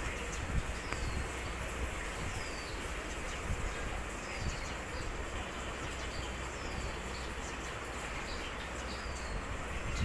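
A bird's short high chirp, falling in pitch, repeated about once a second over steady background noise with a low rumble.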